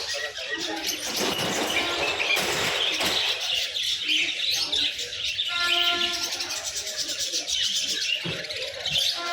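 Many small cage birds chirping continuously, a dense chatter of twittering calls. A little past halfway a short steady held tone sounds over it.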